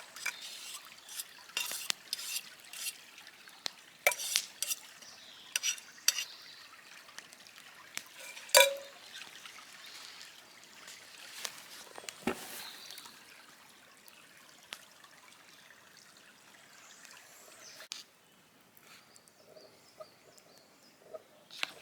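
Cooking in a pan over a campfire: stirring and scraping with irregular sharp clicks and a low sizzle. The clicks are dense for the first dozen seconds, with one louder knock a little past the middle, then thin out to a faint, quieter stretch.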